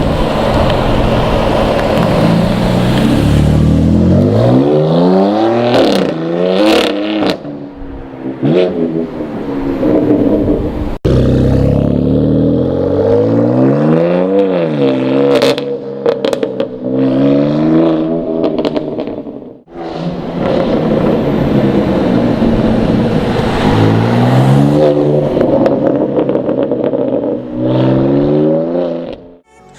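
BMW M4's twin-turbo straight-six sounding through a Remus aftermarket exhaust, revving up and down again and again, with sharp pops and cracks between the revs. The sound breaks off abruptly about eleven seconds in and again near twenty seconds, each time starting a fresh run of revs.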